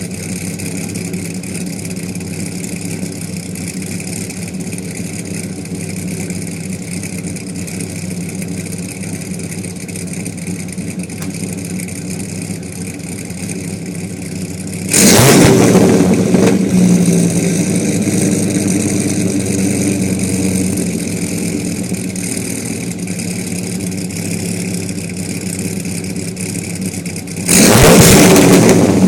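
2005 Dodge Ram SRT-10's 8.3-litre Viper V10 idling steadily through its exhaust, then revved sharply about halfway through and easing back down over several seconds, then revved hard again near the end.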